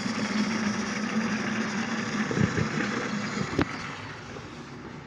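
Battery-powered Thomas TrackMaster toy train motors whirring as the engines run along the track, with one sharp click about three and a half seconds in. The whir grows a little quieter near the end.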